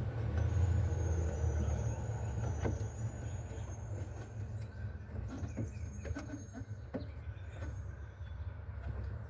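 A steady low rumble with a few light clicks and knocks as a plastic interior trim cover in a Pontiac Firebird is worked loose by hand.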